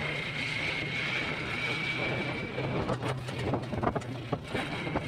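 A vehicle's engine running steadily on the move, a low hum with a steady high whine over it. A few sharp clicks or rattles come between about three and four and a half seconds in.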